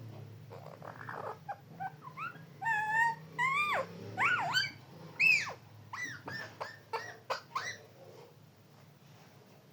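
Parrot calling: a string of short pitched calls, many sliding up and then down, with the loudest about five seconds in, stopping about eight seconds in.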